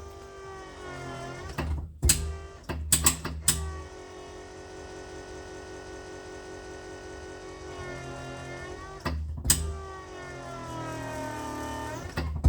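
A small electric motor whirring, its pitch sliding up and down as its speed changes and holding steady for a few seconds in the middle. Sharp clicks, like dash switches being pressed, come several times.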